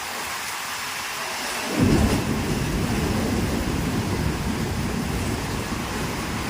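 Heavy typhoon rain hissing steadily, with a low rumble of thunder that breaks in loudly about two seconds in and keeps rolling.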